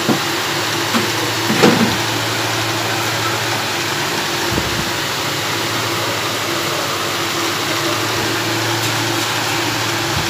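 A steady mechanical drone of hiss with a low, even hum, like a running motor or fan. A few small clicks come in the first two seconds.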